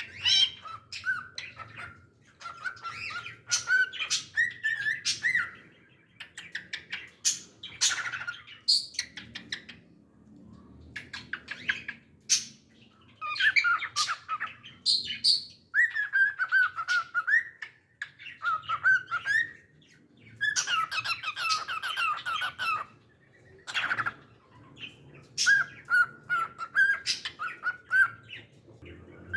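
Pet cockatiel singing and chirping: phrases of warbling whistled notes mixed with sharp chirps and squawks, in bouts of a few seconds with short pauses between.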